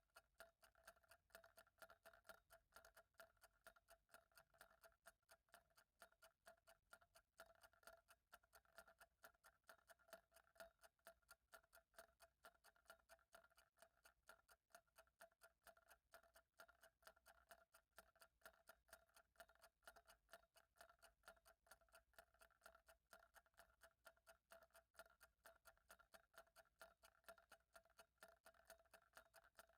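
Faint, steady ticking of a clock, even ticks at a regular pace, over a faint steady hum.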